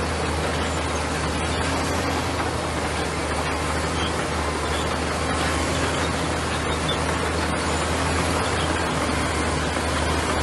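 Bulldozer's diesel engine running steadily, with an even low hum and no change in level.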